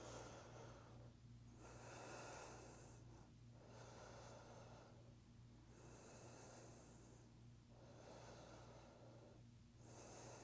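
Faint, slow, deep breathing in and out, each breath lasting about two seconds.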